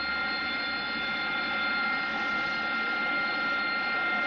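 Aircraft jet engine running steadily: a whine of several fixed high tones over a low rush of noise, unchanging throughout.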